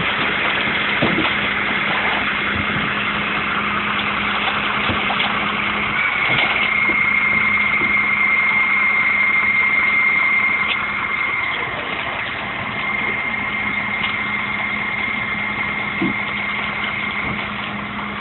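Garbage truck engine running steadily with a low hum. About six seconds in a high steady whine starts over it, loudest for the next five seconds, then fainter.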